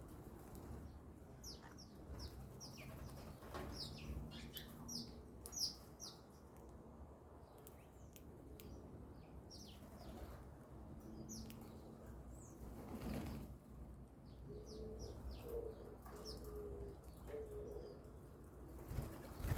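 Small birds at a grain feeder making many short, high chirps, mostly in the first two-thirds, along with a few low, held cooing notes. Wings flutter a few times, once near the end.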